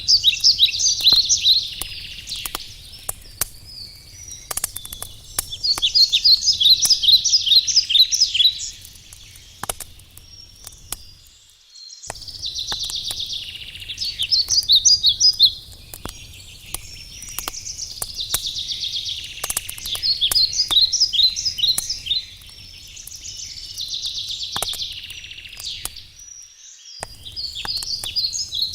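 A songbird singing the same short phrase of quick, trilled notes over and over, about every six seconds, over the crackle and pops of a wood campfire. The low background drops out briefly twice.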